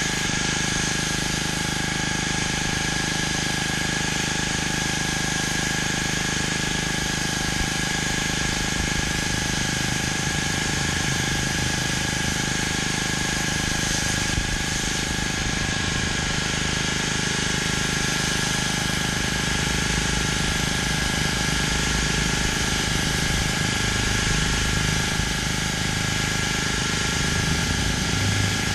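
Pressure washer's engine running steadily, with the hiss of the high-pressure water jet spraying concrete.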